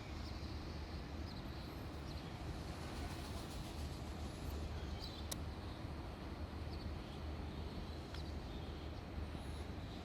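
Steady low rumble of outdoor background noise, with a few faint short high chirps and a single sharp click about five seconds in.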